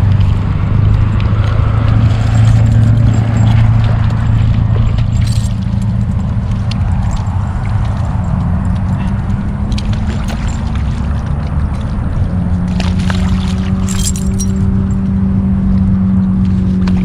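A motor vehicle's engine running steadily, its hum stepping up in pitch partway through, with a few brief metallic jingles.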